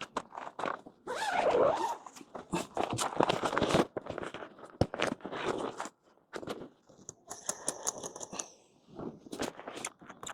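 A camping tent being put up by hand: fabric rustling and scraping, broken by irregular clicks and knocks of poles and fittings.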